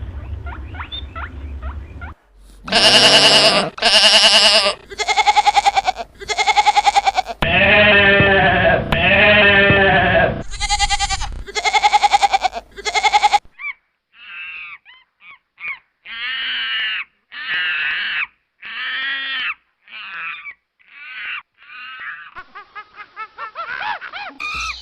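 A run of loud farm-animal calls, each a separate pitched blast lasting about half a second to two seconds, followed by a string of quieter, shorter calls.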